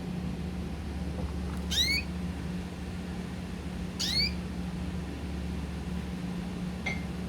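A pet bird giving a short call that sweeps upward, twice, about two seconds apart, with a fainter call near the end, over a steady low hum.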